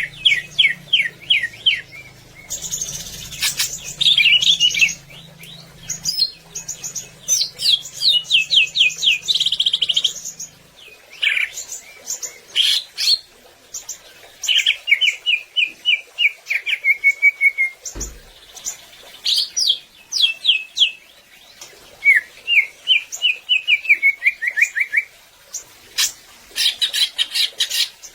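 Cucak ijo (green leafbird) singing a loud, varied song: fast runs of short repeated notes, many falling in pitch, mixed with higher sharp whistled phrases. A single dull knock sounds about eighteen seconds in.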